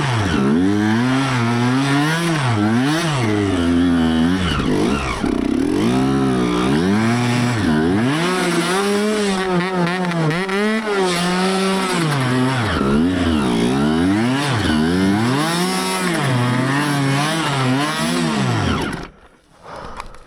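Dirt bike engine being ridden hard, revving up and dropping again and again with a high buzzing note. The sound stops abruptly near the end.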